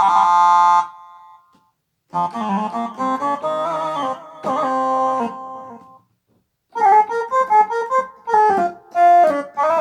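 Korg Pa600 arranger keyboard played with a Kronos sound set: a short chord, then two melodic phrases of quick notes, separated by brief pauses.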